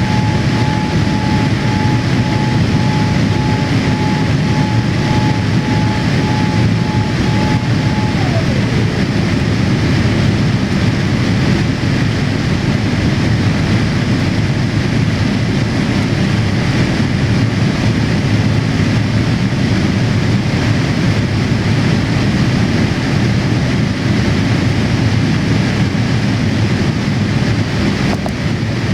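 Boeing 787-8 cabin noise: a steady low rumble from the airliner, heard from inside the cabin. A whine near the start drops in pitch about eight seconds in.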